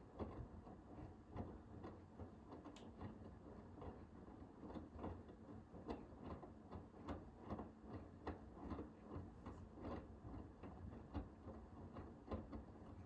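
Hoover H-WASH 500 front-loading washing machine's drum turning during a Cotton 60 cycle, starting up at the beginning after a pause. The laundry tumbles and knocks in a regular rhythm about twice a second over a low motor hum.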